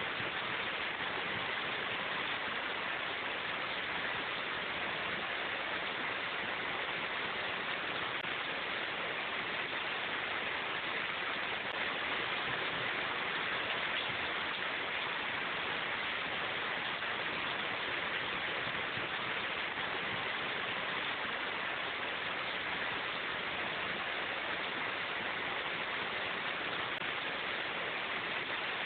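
Steady, even rain falling in a forest, a constant hiss with no distinct drops or thunder.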